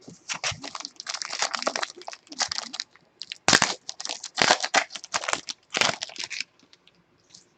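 Trading card pack wrapper crinkling as the pack is opened, a run of crackles with a few louder cracks in the middle, stopping about six and a half seconds in.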